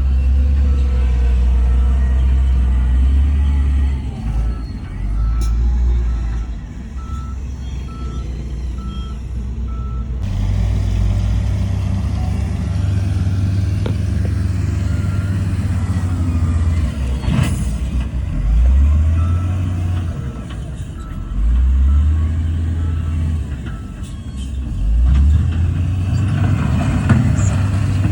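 Heavy diesel earthmoving machinery (bulldozer and dump trucks) running and revving up and down repeatedly. A reversing alarm beeps steadily for several seconds in the first third, and there is a single sharp knock about midway.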